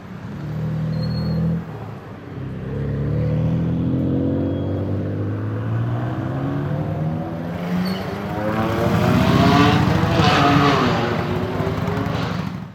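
BMW M4 F82's twin-turbo inline-six through a valved Fi-Exhaust, accelerating with its pitch climbing steadily for several seconds after a brief lift near the start. It is loudest about ten seconds in, and the pitch falls away after the peak.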